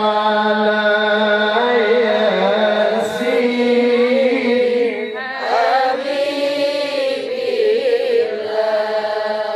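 A man reciting the Qur'an in the melodic tilawah style: long held notes with wavering ornaments, broken by a short pause about halfway. A steady low hum runs beneath the voice.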